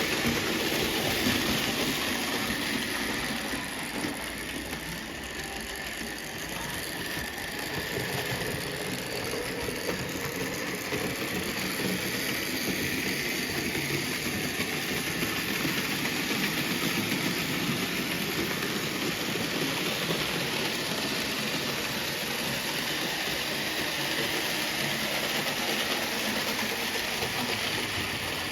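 Märklin BR 038 (3099) HO model steam locomotive running on Märklin M track with its coaches: a steady whir of the electric motor and the rattle of wheels over the metal track. It dips slightly a few seconds in, then holds steady.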